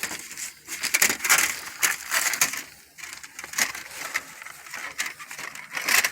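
Irregular rustling and crunching noises, a dense string of short crackles and scrapes that pause briefly about three seconds in.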